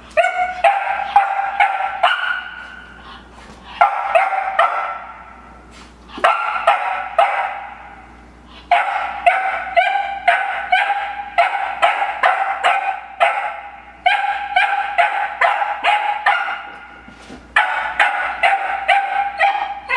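A puppy barking at a new bone it takes for an intruder: rapid, high-pitched barks in repeated bouts of a few seconds, with short pauses between them.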